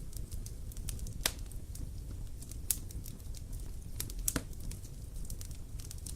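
Bonfire crackling: irregular sharp snaps and pops over a low, steady rumble of the flames, with three louder pops among them.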